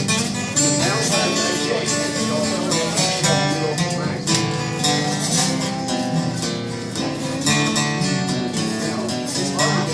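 Instrumental break of a country song played live on acoustic guitar: strummed chords with picked melody notes over a steady beat.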